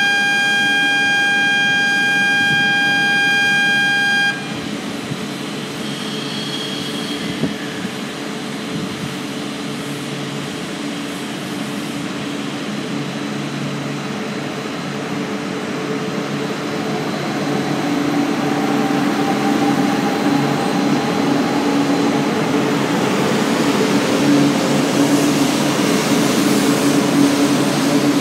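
A loud steady electronic tone sounds for about four seconds at the start. Then the E4 series Max double-decker Shinkansen pulls away: a rising whine and growing rumble build as it begins to accelerate.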